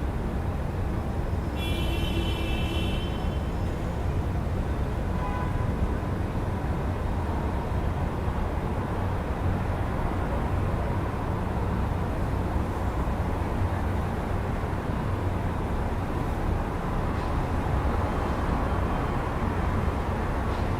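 Steady city traffic rumble heard through an open window, with a brief high-pitched squeal about two seconds in.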